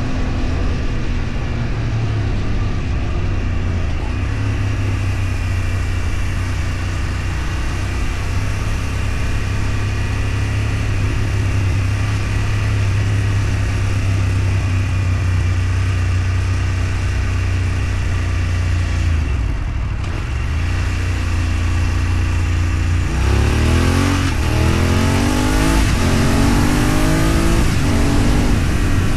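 Road vehicle engine running at a steady cruise under road noise. It eases off briefly about two-thirds of the way in, then accelerates in several rising sweeps as it goes up through the gears.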